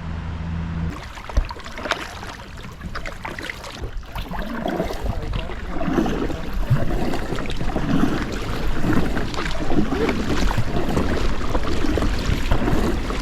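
Inflatable kayak paddling on a river: irregular water splashing and paddle strokes with wind noise on the microphone, growing louder after a few seconds. A low steady hum cuts off about a second in.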